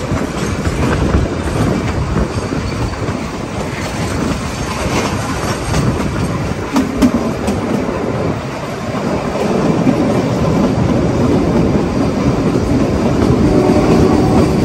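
Narrow-gauge Kalka–Shimla toy train running along the track: a steady rumble from the coaches, with wheels clicking over the rail joints.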